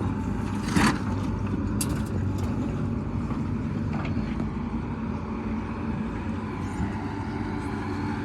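Heavy diesel engine running steadily, with a short loud burst of noise about a second in and a few light clicks.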